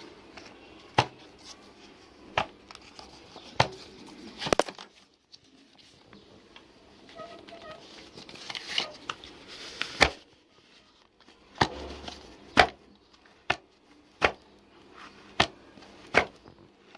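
A series of sharp knocks and clicks, about a dozen, coming irregularly about a second apart.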